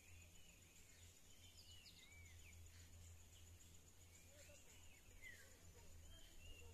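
Near silence with faint bird chirps: short arched notes repeating every second or so, over a faint steady high-pitched whine.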